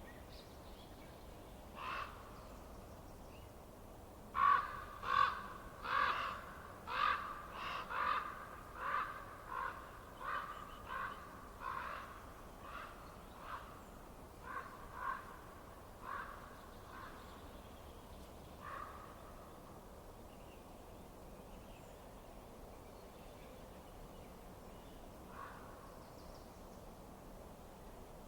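A bird calling over and over: a run of about twenty calls at roughly two a second, loudest at the start and fading away, with a few single calls before and after, over a steady hiss.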